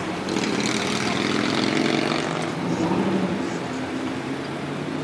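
Car engine running at low revs: a steady drone that drifts slightly in pitch.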